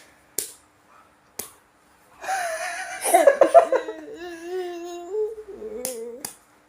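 A young child's voice: two small clicks, then a breathy outburst followed by a long, high-pitched drawn-out vocal sound that shifts in pitch, somewhere between laughing, whining and humming.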